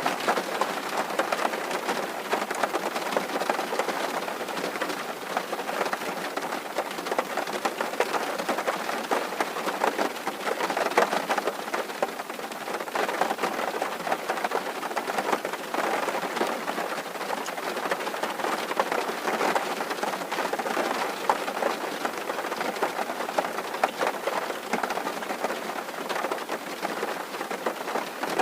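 Steady rain drumming on a tin roof, a dense patter of many small drop strikes.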